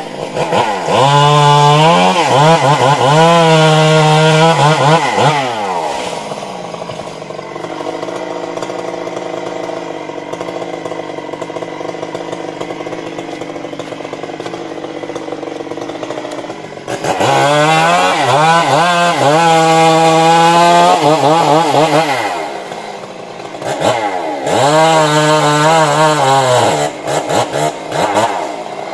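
Stihl MS 382 two-stroke chainsaw revved to full throttle three times, its pitch wavering at speed. Between bursts it falls back to a steady idle, with a long idle in the middle.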